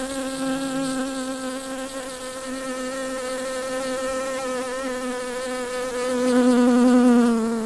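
Honey bee buzzing close by: one steady, slightly wavering wing-beat hum that swells louder about six seconds in, then cuts off suddenly.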